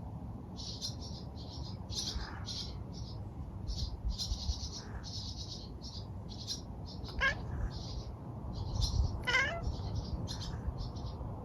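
A domestic cat chattering at a bird: a run of short, rapid high chirps, with quavering calls falling in pitch about seven and nine seconds in.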